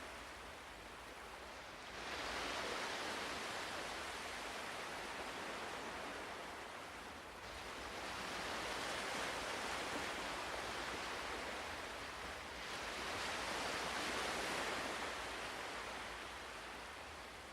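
Ocean waves breaking and washing on a shore, swelling up about every five seconds and ebbing between.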